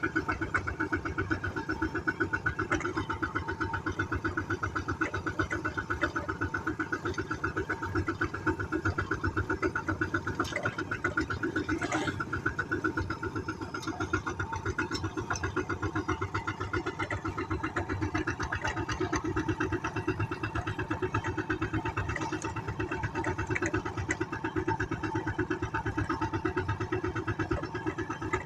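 Tractor engine running steadily at an even speed, with a fast, regular chugging of firing pulses.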